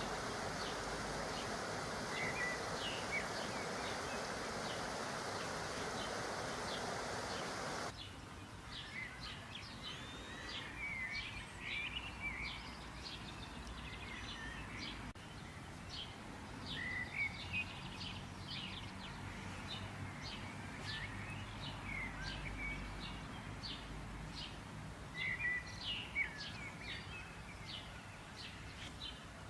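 Small birds chirping and trilling, many short calls, most of them after about eight seconds. For the first eight seconds a steady even hiss lies under them and then cuts off suddenly.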